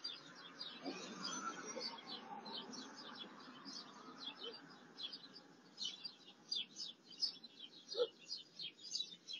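Small birds chirping: a steady run of short, quick, downward-sliding chirps, several a second.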